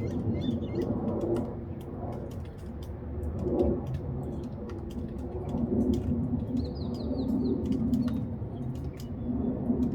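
Northern mockingbird singing faintly in short high phrases, with a quick run of repeated rising notes about seven seconds in. Louder low-pitched calls come and go in several bouts beneath it, and scattered sharp clicks run throughout.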